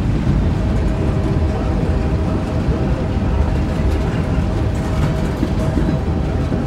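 Kansas City Southern freight train's boxcars rolling past: a steady, loud rumble of steel wheels on rail, with a faint steady whine over it through most of the stretch.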